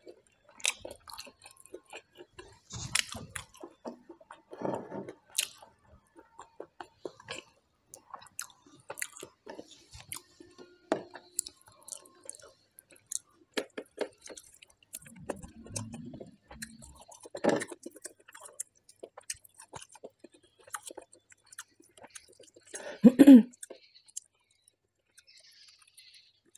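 Close-miked mouth sounds of eating: wet chewing and lip smacking on a mouthful of smoked pork and rice eaten by hand, with a short, louder throaty mouth sound near the end.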